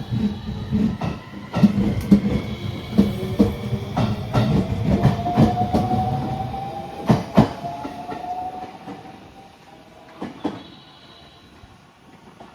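Electric train pulling away on the rails, wheels clacking over rail joints while a motor whine rises slowly in pitch as it gathers speed. The sound fades out after about eight seconds, with a last few clacks.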